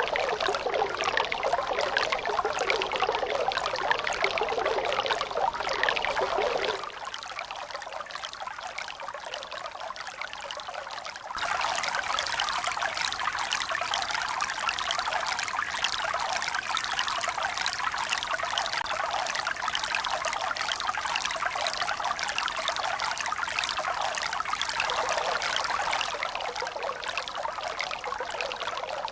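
Steady running water, trickling and pouring. About seven seconds in it cuts abruptly to a quieter, thinner stretch for about four seconds, then comes back just as suddenly.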